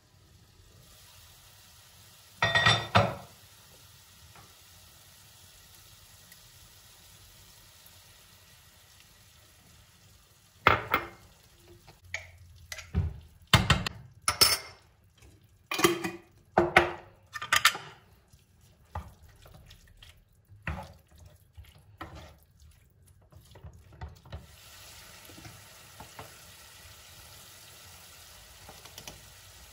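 Kitchen work sounds: a brief clatter a few seconds in, then a run of sharp clinks and knocks of utensils and cookware through the middle, and from near the end the steady hiss of food starting to fry in a pan.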